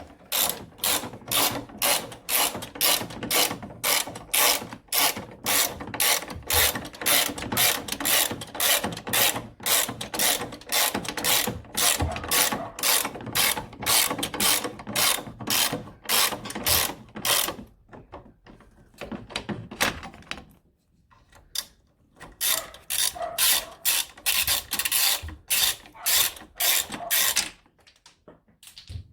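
Socket ratchet tightening the engine mount bolts, clicking in quick even strokes of about two or three a second. It stops for a few seconds past the middle, then starts again.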